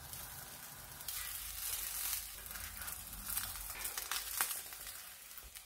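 Masala dosa sizzling in oil on a hot tawa while it is folded and rolled: a steady frying hiss, with a few light taps.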